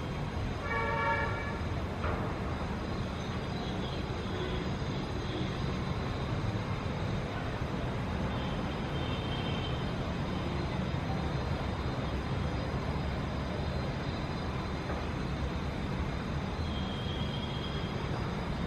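Steady low rumble of city traffic, with a short vehicle horn toot about a second in. Faint high chirps sound briefly around the middle and again near the end.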